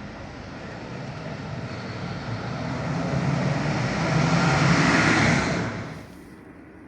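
A vehicle approaching and passing close by, its running noise with a low hum growing steadily louder for about five seconds, then cutting off abruptly near the end.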